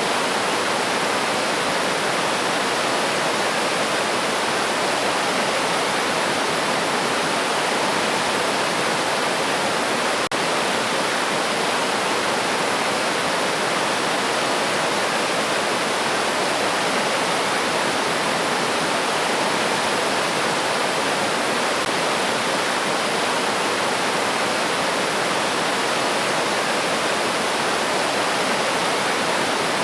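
River water rushing steadily: an even, unbroken wash of flowing stream noise.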